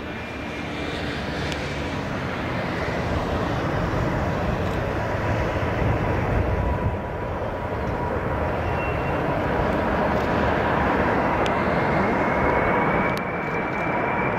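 Boeing 747 jet engines roaring as the jumbo passes close, growing louder over the first few seconds. A steady whine comes in about halfway through, and a higher whine slowly rises near the end.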